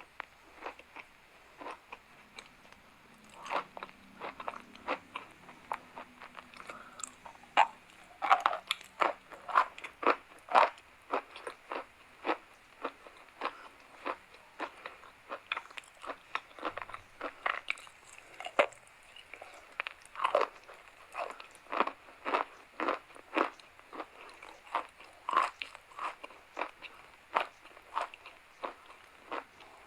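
Dry and wet chalk crunching close to the microphone: a steady run of sharp, crackly crunches, roughly two a second.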